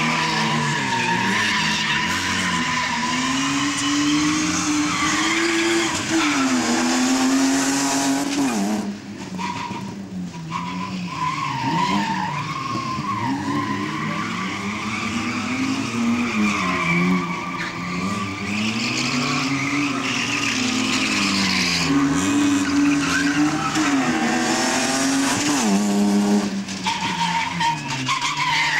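A car's engine being driven hard through a slalom course, its pitch climbing under acceleration and dropping off again many times over, with tyres squealing through the turns.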